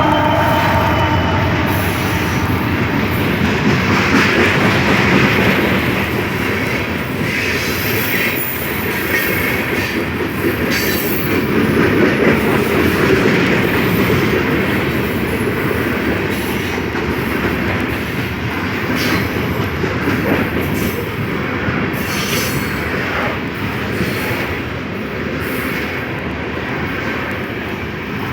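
Freight train cars rolling past on the rails: steady wheel-on-rail noise with clacks at the rail joints and some high wheel squeal. A locomotive horn is tailing off about a second in.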